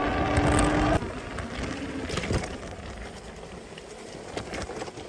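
Electric e-bike hub motor whining steadily under wind noise, cut off suddenly about a second in. After that come quieter scattered light clicks and rustles.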